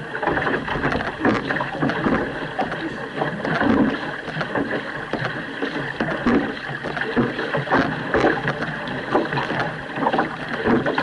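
Outrigger canoe crew paddling hard: paddle blades catch and pull through the water about once a second, splashing in a steady rhythm, with wind rushing over the microphone.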